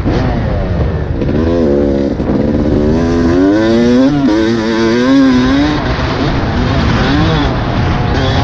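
Yamaha YZ250 two-stroke dirt bike engine revving on a motocross track, its pitch rising and falling repeatedly as the throttle is worked, over heavy wind rush on the microphone.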